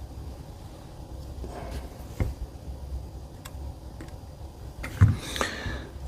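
Small airgun parts being handled and oiled on a workbench: a faint low hum, a sharp click about two seconds in, then a knock and a short rustle around five seconds in.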